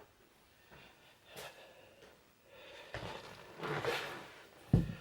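Handling and rummaging noises: soft rustles and shuffles, then a single sharp knock near the end.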